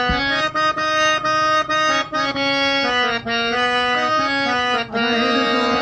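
Instrumental break in a Sindhi song: a free-reed keyboard instrument plays the melody in held notes that move in steps, over a low drone.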